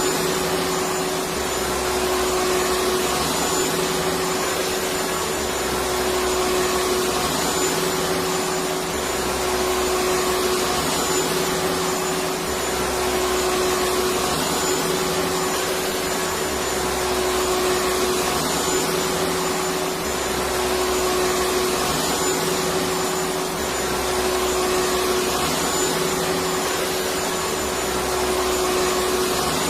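Vacuum cleaner motor running steadily, a constant whirring hum with a faint low pulse that swells and fades every few seconds.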